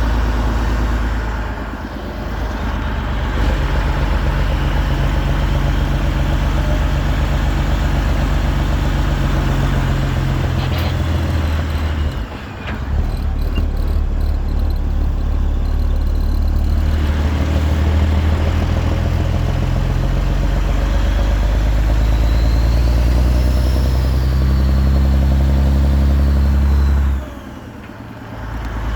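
Peterbilt 389's 6NZ Caterpillar diesel running loud through 8-inch straight pipes, a deep steady exhaust note held for long stretches. The sound drops off briefly three times, about two seconds in, near the middle and near the end, before coming back on.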